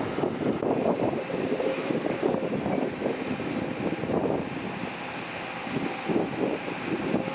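Diesel engine of heavy earthmoving machinery running, its noise surging and easing unevenly.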